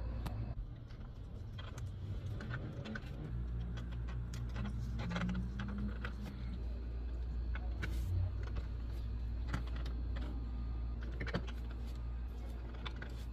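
Small parts and hand tools clicking and tapping irregularly over a steady low hum, with a brief whir near the middle.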